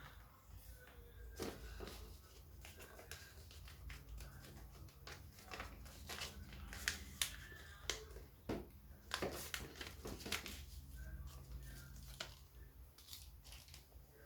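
Paper being folded and creased by hand: scattered crinkles, rustles and sharp little clicks as the folds are pressed flat, over a faint steady low hum.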